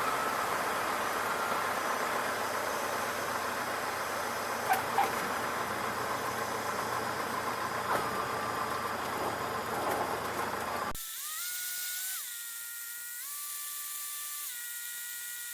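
Cessna 152 cabin noise through the headset intercom: engine and airflow as a steady hiss with a faint whine. About eleven seconds in the noise cuts off suddenly, leaving a thin electronic hum whose tones step up and down in pitch.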